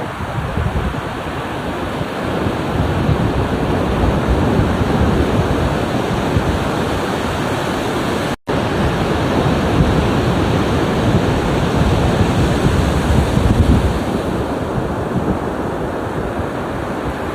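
Ocean waves washing onto the shore in a steady surf that swells louder twice. The sound drops out for a split second about eight seconds in.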